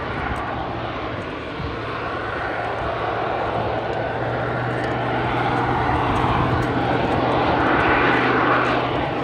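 Turboprop display aircraft with Pratt & Whitney PT6A engines flying overhead, its engine and propeller noise swelling to its loudest about eight seconds in as it passes.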